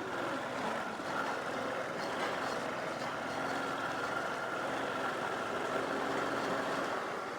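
Motorbike running steadily along a dirt road: a constant engine drone mixed with road and wind noise, with a low steady hum joining about three seconds in.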